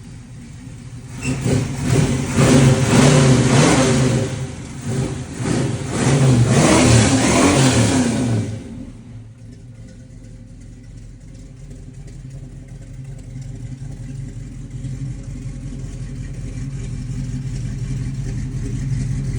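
1978 Chevrolet Monte Carlo's engine revved twice, each rev lasting a few seconds, then dropping back to a steady idle that slowly grows a little louder.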